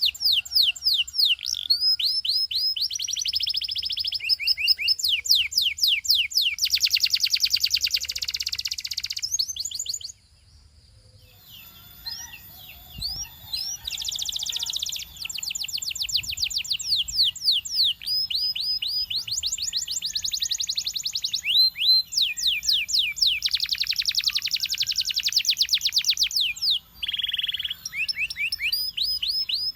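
Belgian singing canary in full song: fast rolls of repeated high chirps and trills, each roll held for a second or two before changing to another. The song breaks off about ten seconds in and resumes a couple of seconds later.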